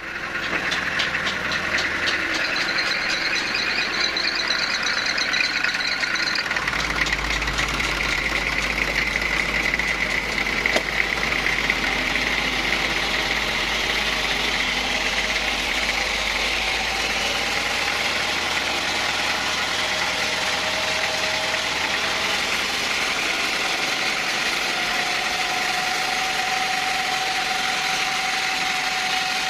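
Sawmill machinery running steadily, with a deeper rumble for about ten seconds in the middle.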